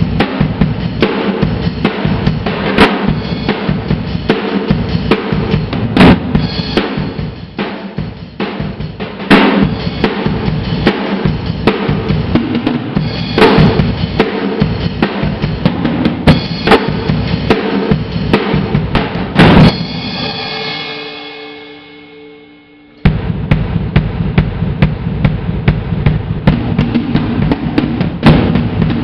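Drum kit played hard and fast: bass drum and snare hits with repeated cymbal crashes. About twenty seconds in the playing stops and a ring fades away for a couple of seconds, then the drumming starts again suddenly.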